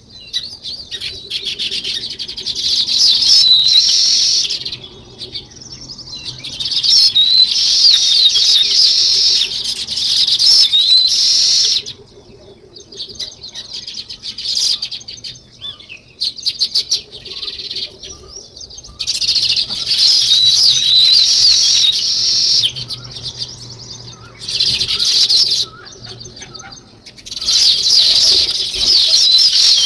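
A flock of small birds chirping and chattering in dense spells of a few seconds each, with quieter pauses between them, several times over.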